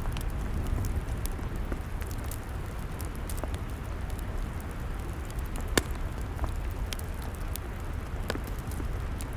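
Log fire crackling: scattered sharp pops and snaps over a steady low rumble, with one louder pop a little after halfway.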